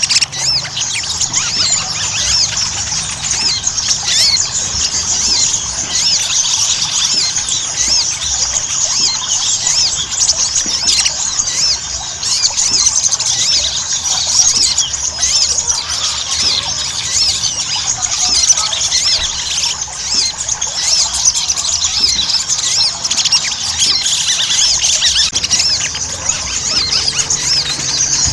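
Sogon (sogok ontong) birds in fast, continuous high-pitched twittering chatter. Many quick chirps overlap without a break, the 'ngobra' style of a bird in full song used as a lure.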